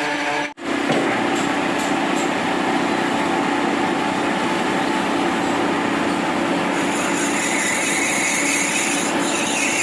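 A metalworking machine tool runs steadily with a constant hum, briefly cut off about half a second in. A higher hiss joins about seven seconds in, as if the cutting load changes.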